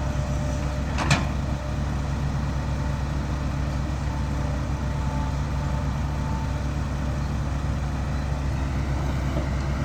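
Heavy diesel engine running steadily at a low, even drone, with a single sharp click about a second in.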